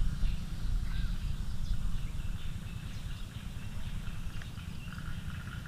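Wind buffeting the microphone in a low, fluttering rumble that eases off over the seconds, with faint high chirping in the background.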